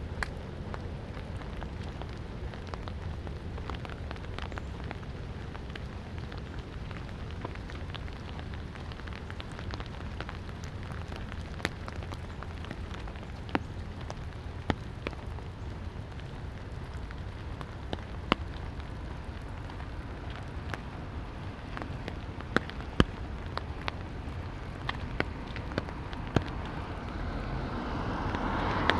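Light rain falling: a steady hiss with scattered sharp ticks of single drops landing close by. Near the end a passing car's approach begins to swell.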